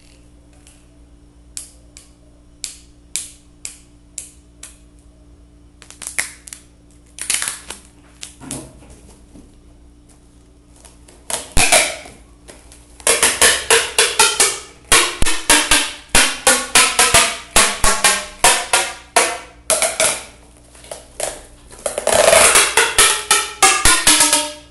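Adhesive tape being pulled off its roll: scattered sharp crackles at first, then from about halfway through a run of quick repeated tearing pulls, about three or four a second, with a squealing ring in some strokes near the end.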